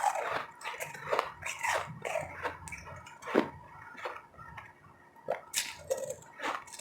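Close-up chewing of crunchy and powdery ice: irregular crunches and crackles, the loudest about three and a half seconds in, with a short lull just after.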